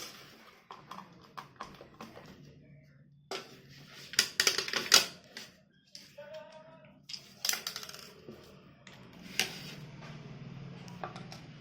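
Clicks, knocks and clatter of the hard plastic parts of an electric mosquito bat being handled and taken apart, with a cluster of sharp clicks about four to five seconds in.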